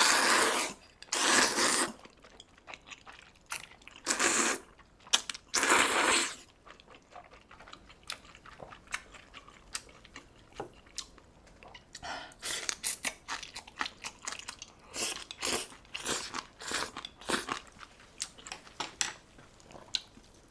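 Close-up eating sounds of udon noodles: four loud slurps in the first six seconds, then steady wet chewing with many small clicks.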